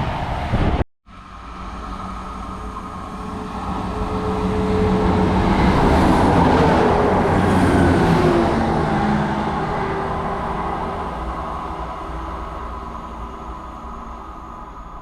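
A train passing through the station without stopping, the rumble building to its loudest about six to eight seconds in and then slowly fading as it goes away. The sound breaks off for a moment about a second in.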